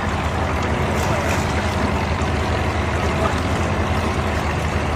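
Outboard-powered speed boat under way, its engine running steadily with a constant low drone and the rush of water and wind.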